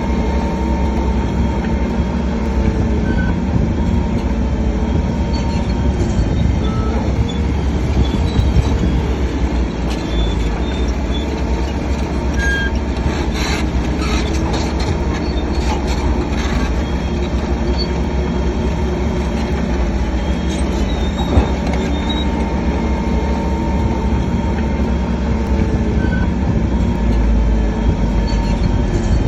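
Shantui DH7C3 crawler bulldozer working under load: a steady heavy diesel engine sound with clanking steel tracks and scattered short high squeaks.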